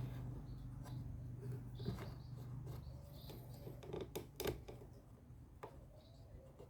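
Scattered light clicks and knocks of hand tools and wooden parts being handled, the strongest pair about four seconds in, over a low steady hum that fades away.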